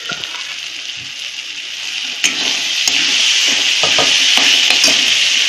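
Boiled red chickpeas frying in an oily onion-tomato masala in a kadai, sizzling steadily while a steel spatula stirs them, scraping and clicking against the pan. The sizzle grows louder about two seconds in.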